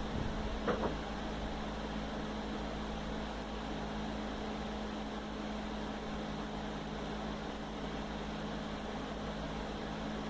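Steady mechanical hum with a low rumble and two steady low tones, with a brief clatter less than a second in.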